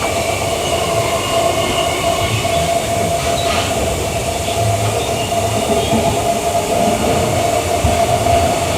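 Queensland Rail EMU electric train running between stations, heard from inside the carriage: a steady rumble of wheels on track with a steady whining tone over it.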